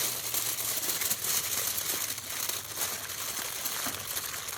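Aluminium foil crinkling and crumpling continuously as a foil packet of seasoned meat and vegetables is rolled up and folded closed by hand.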